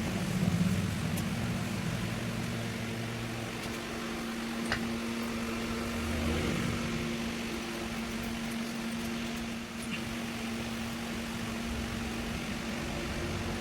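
Steady machine hum holding one low pitch, with a faint click about five seconds in.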